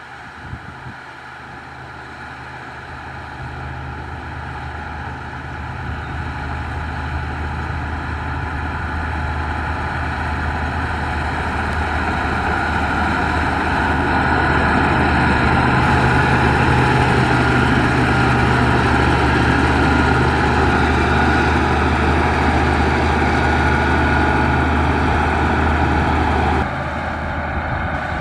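Heavy diesel engine of a Caterpillar 140H motor grader running steadily, growing louder over the first half as the machine comes closer, then dropping abruptly in level near the end.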